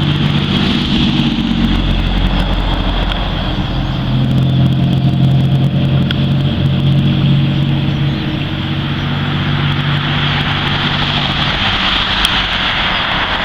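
A motor vehicle engine running steadily with a low hum that fades out near the end, over a dense, continuous chatter from a huge flock of birds.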